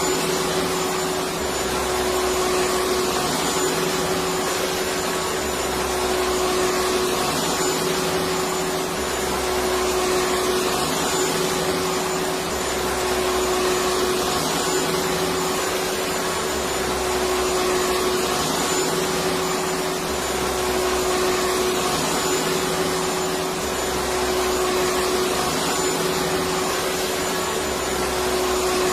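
Electric vacuum cleaner running continuously: a steady hiss of rushing air with a constant motor whine, rising and falling slightly in a slow, even rhythm.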